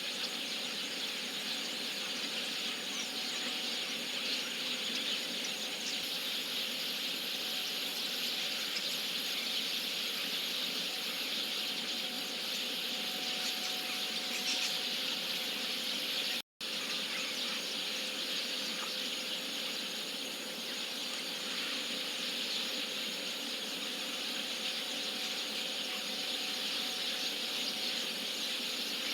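A large flock of chestnut-cheeked starlings chattering steadily at their roost, a dense unbroken din of high calls. It cuts out for a split second just past the middle.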